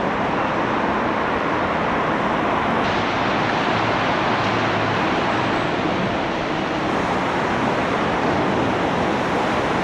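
Steady rush of motorway traffic, an even noise without breaks.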